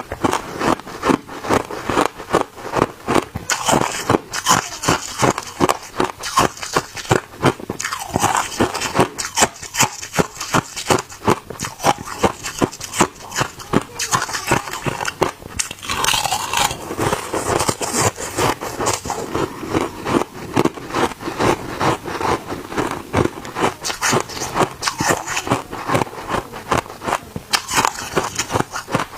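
Hard ice being bitten and chewed close to the microphone: dense, rapid crunching and cracking that goes on without a break.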